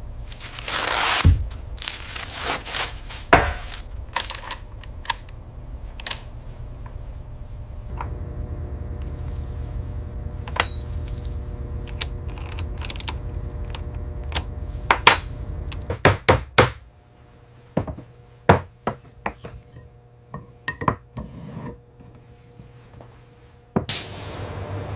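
Irregular sharp metallic clinks and knocks, a couple of dozen in all, over a low steady hum that drops away about two-thirds of the way through; a louder rush of noise starts just before the end.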